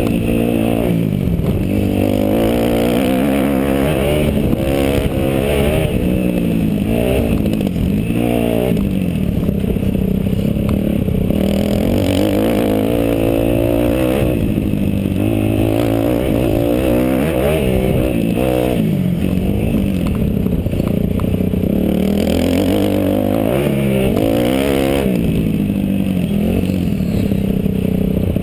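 Kawasaki KX250F motocross bike's four-stroke single-cylinder engine at race pace, its pitch climbing and dropping over and over as the throttle is opened and shut.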